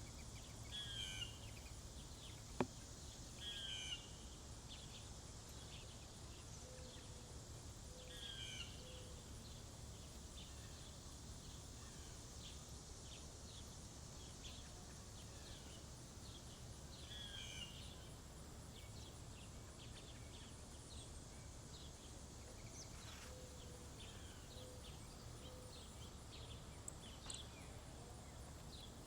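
Faint outdoor ambience of small birds at a feeder: a short, falling call repeats every few seconds, with soft low notes in two runs of three. One sharp click sounds a little over two seconds in, over a steady high hiss.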